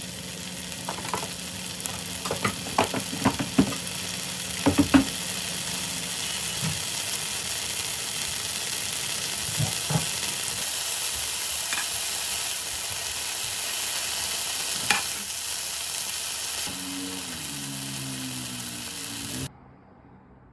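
Food frying and sizzling in a pan, a steady hiss, with utensils clicking and scraping against the pan during the first few seconds. The sizzling cuts off suddenly shortly before the end.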